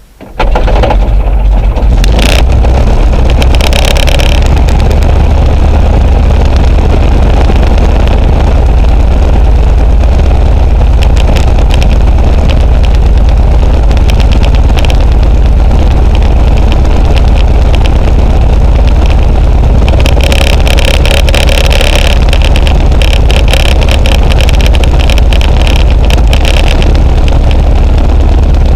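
Luscombe light aircraft's piston engine catching about half a second in, then running loud and steady with the throttle at idle.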